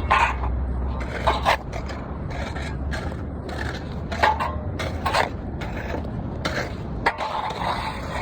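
Irregular scraping strokes on a hard surface, a few seconds apart, over a low steady rumble.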